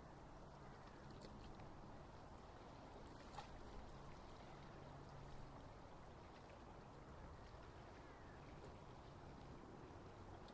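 Faint lakeside ambience: a low, steady background wash with a faint motor hum that comes and goes, and a few faint ticks and short chirps.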